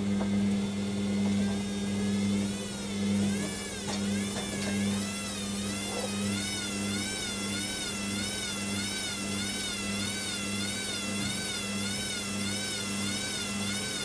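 Hoover WDYNS654D washer dryer's drum motor turning the drum in a balancing attempt before the spin: a motor whine that rises, then wobbles up and down a little more than once a second as the unbalanced bedding load goes round, over a steady low hum.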